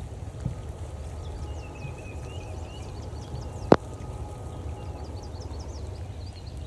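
Rain falling steadily in woodland while small birds chirp in the distance, one with a short falling trill. A single sharp click stands out about two-thirds of the way through.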